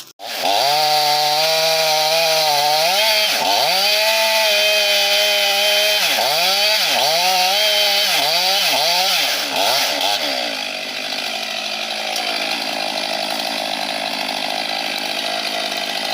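Gas chainsaw revving: the throttle is held for a couple of seconds, then blipped several times in quick succession, each rev dipping and rising again. From about ten seconds in it runs more evenly and a little quieter.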